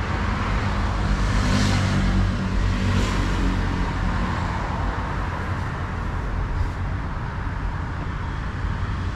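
Road traffic: a steady low engine rumble with a hiss of tyres, and brief louder rushes about one and a half and three seconds in.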